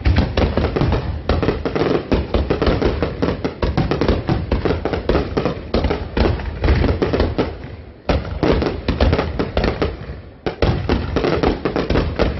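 A dense fireworks barrage: rapid bangs and crackling, with two brief lulls, about eight and ten seconds in.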